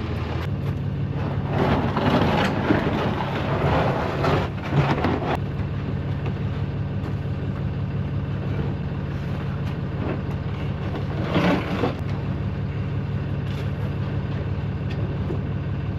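Truck engine idling steadily, with louder stretches of noise about two to five seconds in and again near the end.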